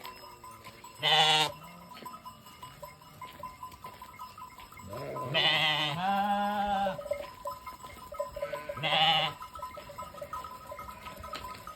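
Sheep bleating: three calls, the middle one long and wavering.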